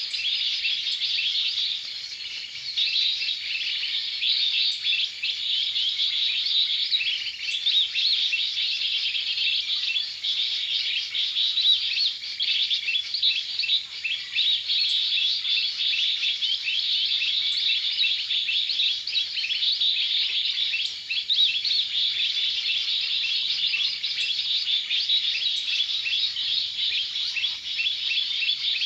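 Many small birds chirping and twittering together in a dense, unbroken chorus.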